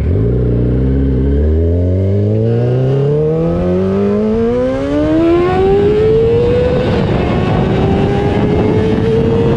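2003 Yamaha YZF-R6's 600 cc inline-four engine, through an SC-Project aftermarket exhaust, accelerating hard. The pitch climbs steadily for about seven seconds, then levels off at high revs.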